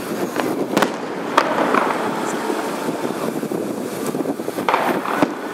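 Fireworks going off: several sharp bangs scattered over a few seconds, over a steady noisy background.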